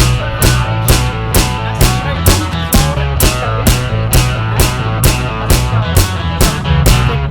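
Instrumental passage of a rock song: a drum kit keeps a steady beat of about two to three hits a second under guitar, with no vocals.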